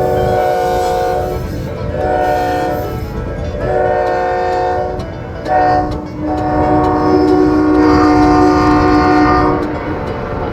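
Diesel locomotive air horn sounding a chord in a series of blasts: several long ones, a short one, then a final long blast, over the low rumble of the running engine.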